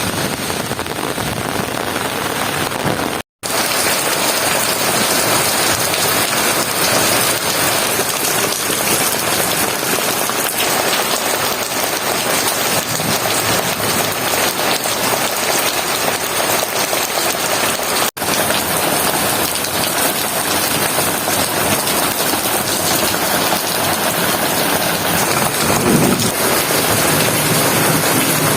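Heavy rain falling steadily, a dense continuous hiss of rain on surfaces. It cuts out briefly twice, about three seconds in and again about eighteen seconds in.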